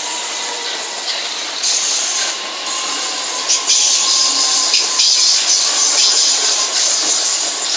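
Southeastern electric multiple-unit train passing close by at speed: a steady rush of wheel and rail noise with a strong hiss, broken by a few sharp clicks. It grows louder about halfway through.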